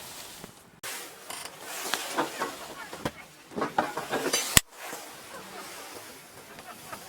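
Hissing and crackling from a wood fire in a compact fire pit, with a sharp click about four and a half seconds in.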